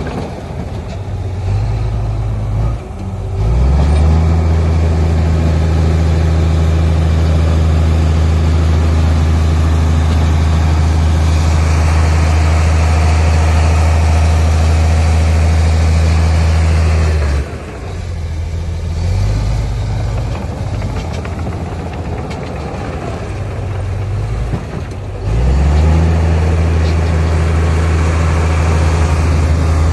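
Heavy diesel engine of earthmoving machinery working, a deep steady drone that climbs in pitch a few seconds in, drops back a little past halfway, and climbs again near the end.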